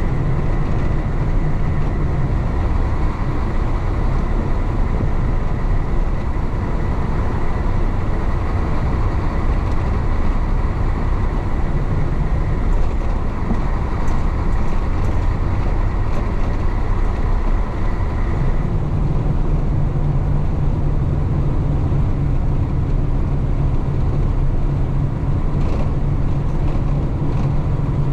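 Isuzu BXD30 bonnet bus's DA640 diesel engine running steadily while the bus drives along, with a faint whine over the engine hum. About two-thirds of the way through, the whine drops away and the low engine note grows heavier.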